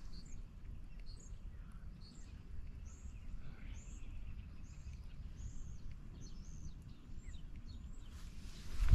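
A bird chirping: a series of short, high, falling chirps, about one or two a second, over a low steady rumble. A louder noise comes in right at the end.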